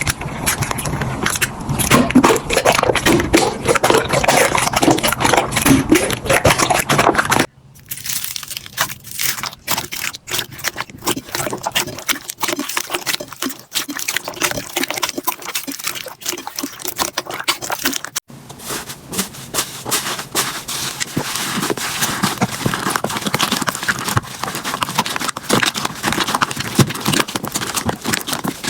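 Slime being squeezed and worked by hand, a dense run of crackling, popping clicks. The sound cuts off and restarts abruptly twice, about a quarter and two-thirds of the way through, as one clip gives way to the next.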